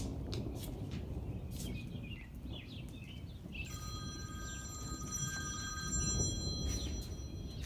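Low rumble of thunder rolling on through a thunderstorm, with a few short bird chirps in the first half. About halfway in, a steady electronic tone sounding several pitches at once comes in for about three seconds, then stops.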